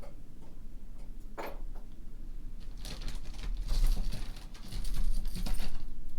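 Brooches and pins being handled and sorted through by hand: rustling and light clatter in two bursts, about three and five seconds in, over a low steady hum.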